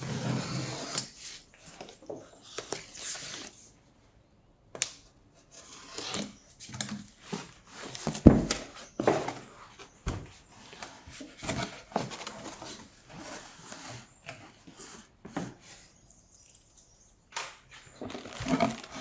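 Monitor box being unpacked by hand: irregular rustling, scraping and knocking of cardboard and packing material, with a louder knock about eight seconds in and brief pauses.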